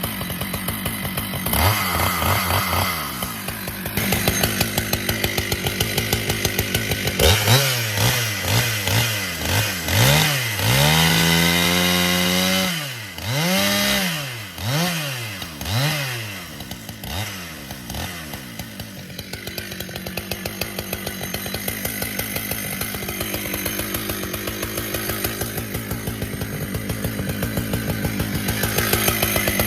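Husqvarna 395XP two-stroke chainsaw running: idling at first, then revved up and down again and again through the middle, with one longer stretch held at high revs, before settling back to a steady idle.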